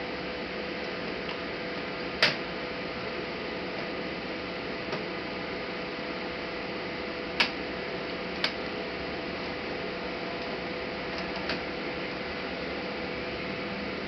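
A few sharp, isolated clicks and taps, the sound of small laptop parts and tools being handled, over a steady background hiss and hum.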